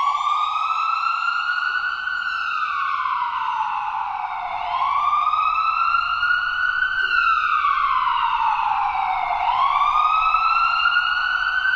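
Emergency vehicle siren in a slow wail, rising and falling in pitch about every five seconds.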